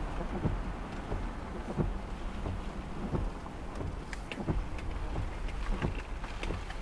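Rain hitting a vehicle's roof and windshield in scattered taps, over the steady low rumble of the vehicle and storm wind.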